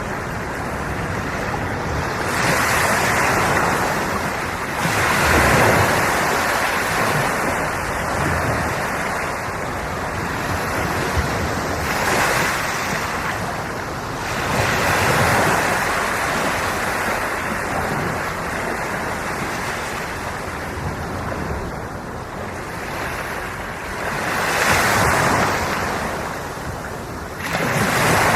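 Sea waves breaking and washing up the shore, a steady rush of surf that swells with each incoming wave every few seconds.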